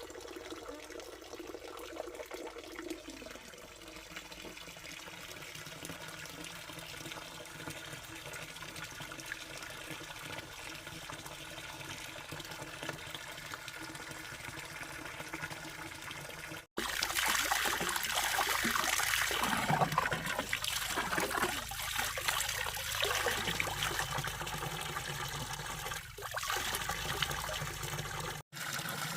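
Water running and trickling steadily. After an abrupt cut about 17 seconds in, the water runs louder and more unevenly, like a fuller splashing flow.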